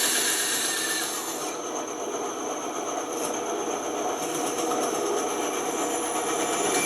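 Band saw running with a steady, even whir and a few faint high tones, as it does while cutting wood.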